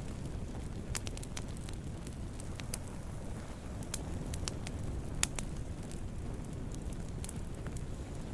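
Wood fire burning with a steady low rumble and scattered sharp crackles and pops, one louder pop about five seconds in.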